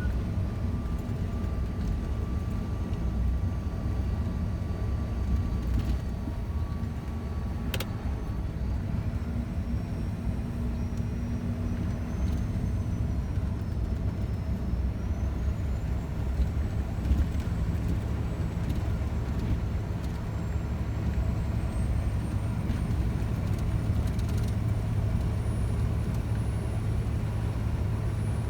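Scania truck running steadily on the road, with its engine and rolling noise filling the low end, a single sharp click about eight seconds in, and a faint high whine that rises slightly toward the end.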